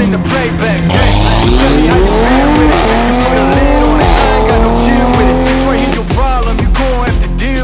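Toyota GR Supra with a titanium and stainless steel full aftermarket exhaust accelerating hard. The exhaust note climbs in pitch, dips at a gear change about three seconds in, then climbs again before fading under background music.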